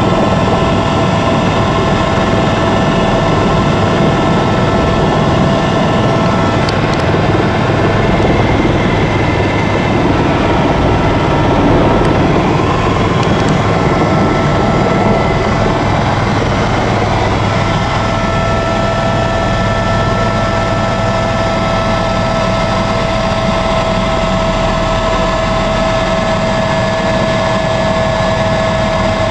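Helicopter in flight, heard from inside the cabin: loud, steady rotor and engine noise with a high, steady turbine whine that weakens for a while in the middle and then returns.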